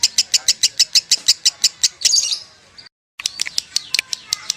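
Lovebird singing a fast, unbroken string of high chirps, about eight a second: the long 'konslet' chattering trill. It breaks off about two seconds in, cuts to silence for a moment, then starts up again.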